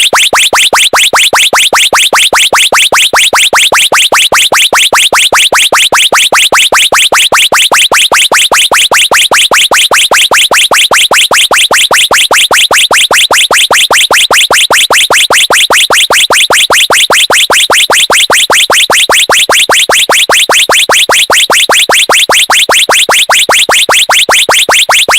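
Electronic bird-call horn sounding loud, rapid chirps that repeat evenly, several a second, without a break.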